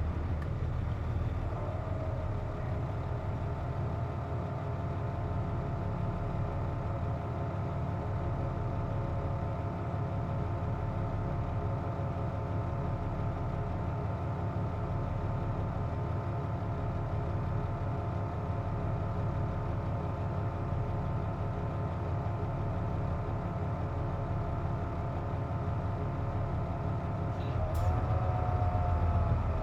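Inside a KC-JP250NTN bus, the engine hums steadily with a steady whine over it, the odd noise this bus makes with its air conditioning running. Near the end there is a click, and then the whine rises in pitch as the engine picks up.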